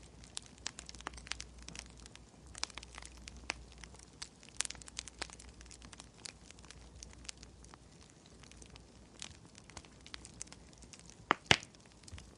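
Wood fire crackling, scattered small pops and snaps, with two sharper clicks close together near the end.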